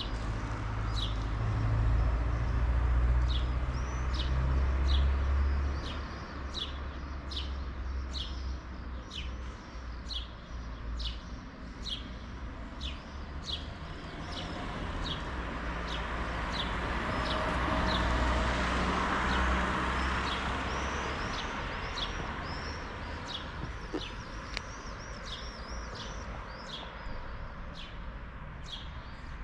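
A bird repeating short high chirps, about two a second, over a low outdoor rumble that swells and fades around the middle.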